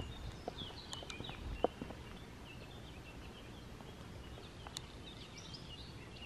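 Small birds chirping in many short, high notes over a low outdoor rumble, with a few faint clicks.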